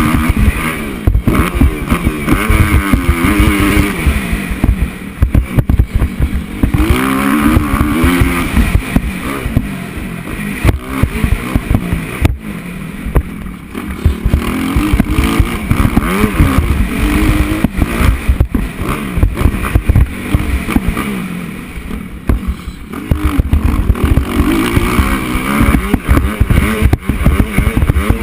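Onboard sound of a 250cc four-stroke motocross bike's single-cylinder engine, revving up and dropping back again and again as it accelerates and shifts around the track. Heavy wind buffeting and sharp knocks from the bumps run through it.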